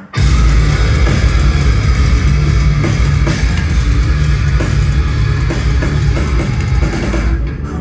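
Metalcore band playing live and loud: pounding drums and bass drum under distorted guitars. Shortly before the end the cymbals and top end fall away.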